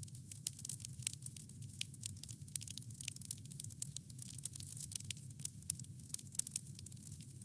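Campfire burning with dense, irregular crackling: many small sharp snaps and pops of burning wood over a steady low rumble. One louder pop comes about six seconds in.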